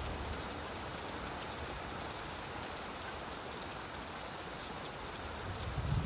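Steady rain falling, an even hiss with scattered drops. Near the end a low rumble of thunder begins to build.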